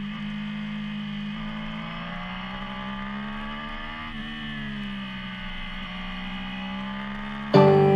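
Triumph Street Triple 675's inline-three engine running at steady revs, its pitch rising a little and easing off again midway. Near the end, loud guitar music cuts in over it.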